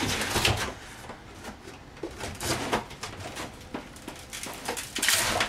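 Scattered knocks, scrapes and creaks of old camper panelling and rotted wood being pried and pulled out, louder near the start and again near the end.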